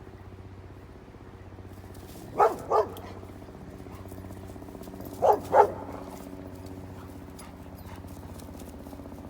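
Anatolian Shepherd dog barking: two pairs of quick barks, about three seconds apart, over a steady low hum.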